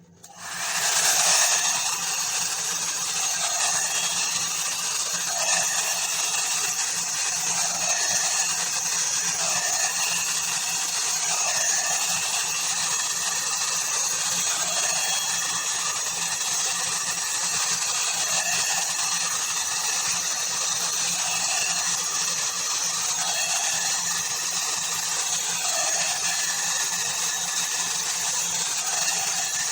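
Hot air brush hair dryer switched on and running: the steady whoosh of its fan-blown air over a low motor hum, swelling gently about every two seconds.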